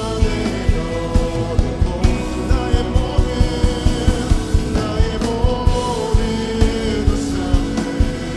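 Worship band playing a slow praise song with a lead vocalist singing over a steady drum beat and sustained keyboard chords.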